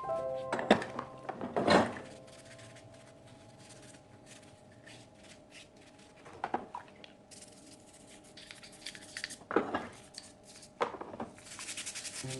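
Metal gas-hob burner parts clattering and knocking against each other as they are washed, with stretches of scrubbing between the knocks. Soft background music underneath.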